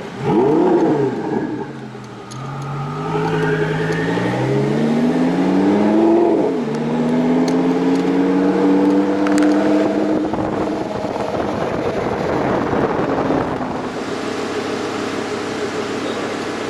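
Twin-turbo Lamborghini engine blipped once, then accelerating hard, its pitch climbing through several gear changes and dropping at each shift. Near the end it eases off into a steady rushing noise.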